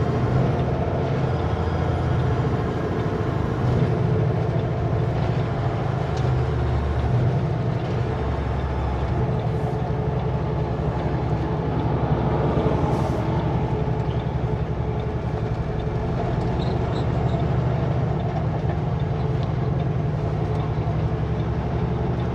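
Diesel engine of a loaded Kenworth W900L semi truck running steadily, heard from inside the cab on a mountain descent, with road noise.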